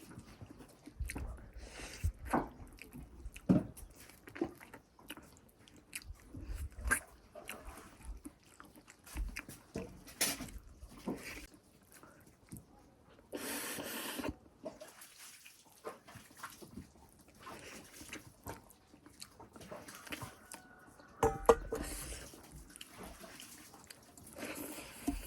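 Close-miked eating: chewing, lip smacks and sips of buffalo-foot soup with rice, as a string of short wet clicks and low thumps. A longer noisy slurp comes about 13 seconds in, and a louder burst with a brief tone about 21 seconds in.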